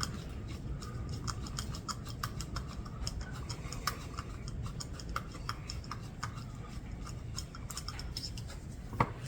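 Light, irregular metallic ticks and clicks of a hand tool working a small brass metered orifice out of a Ford 8N tractor's cast-iron carburetor, over a low steady room hum.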